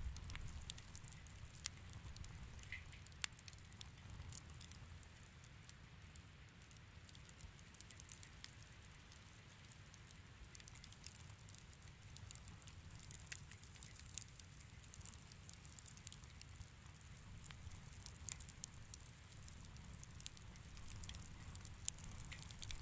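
Wood fire in a fireplace crackling softly: scattered small pops and snaps at irregular intervals over a low steady rumble.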